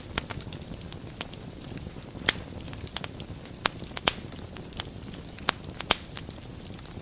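Wood fire burning in a fireplace, crackling: sharp pops of varying loudness go off every second or so, the loudest about two, four and six seconds in, over a low steady rush of flames.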